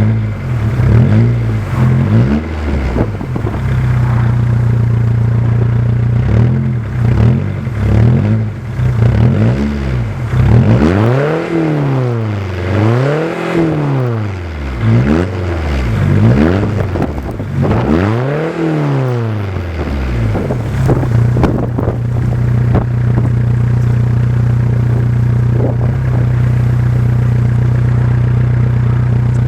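Seat Ibiza 1.9 SDI four-cylinder diesel engine heard through a stainless straight-pipe exhaust with no silencer, being revved while parked: a few short blips at first, then four bigger revs that rise and fall around the middle, before it settles to a steady idle for the last third.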